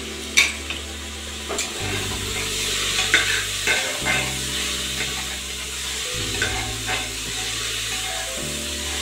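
Chopped bottle gourd sizzling as it fries in an aluminium pressure cooker, with a spoon scraping and clicking against the pot as it is stirred. A sharp metal clank about half a second in, as the cooker's lid is set down.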